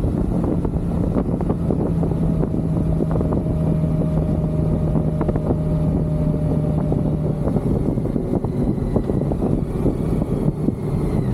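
Motorcycle engine running at a steady pitch, with rushing wind noise over it.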